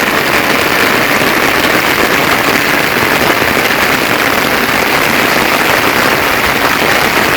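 Steady rainfall, a dense even patter of close raindrops.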